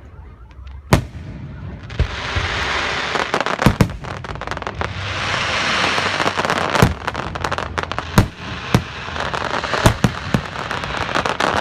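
Aerial fireworks going off: about a dozen sharp bangs at uneven intervals, over a dense crackling hiss that starts about two seconds in and swells and fades twice.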